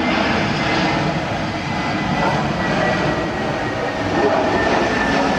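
Jet airliner engines running with a steady rushing noise and a faint high whine that slowly falls in pitch.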